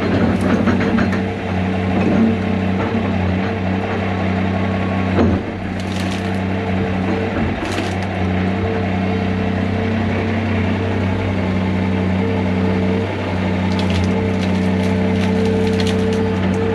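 Heavy diesel excavator engine running steadily under load, with wood cracking and splintering as brush and trees are broken: about six and eight seconds in, and again in a flurry near the end.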